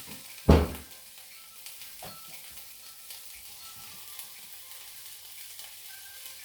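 Food sizzling as it fries in a pan, a steady hiss. A loud knock about half a second in, with a few softer knocks later.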